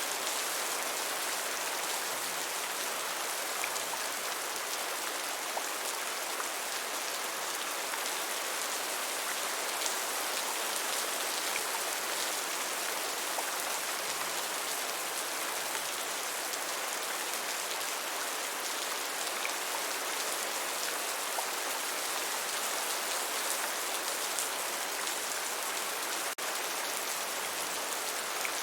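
Steady rain falling: an even hiss with faint scattered drop ticks. The sound dips for an instant near the end.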